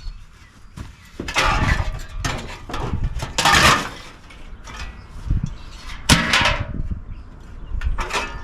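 Sheet metal and parts of an old air-conditioner condenser unit clattering and scraping as it is torn apart by hand, in a run of irregular bursts, loudest about three and a half seconds in and again about six seconds in.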